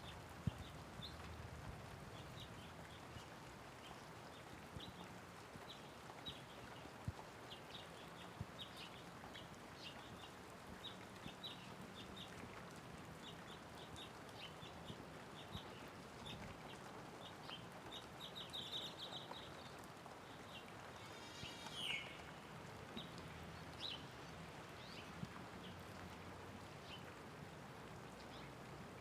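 Light rain falling steadily with birds chirping: short high chirps scattered throughout, a quick trill about two-thirds of the way in, and a call that sweeps down in pitch shortly after. A few sharper drips stand out now and then.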